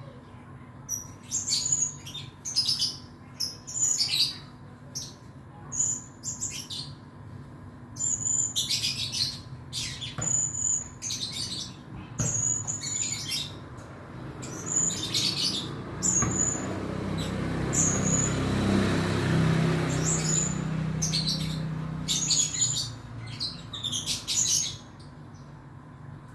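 Blue-crowned hanging parrot calling: bursts of short, shrill, very high chirps, repeated with brief pauses. Midway a rushing noise swells up for several seconds and fades again beneath the calls.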